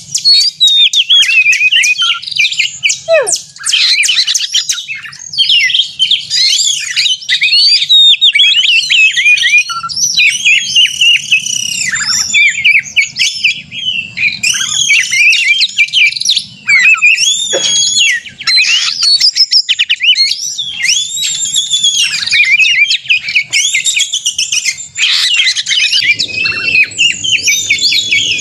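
Oriental magpie-robin (kacer) singing loud and without pause: a fast, varied stream of whistles, rapid chattering notes and harsh squawks. This is its excited, combative 'gacor konslet' song, the kind used as a lure to make other magpie-robins sing.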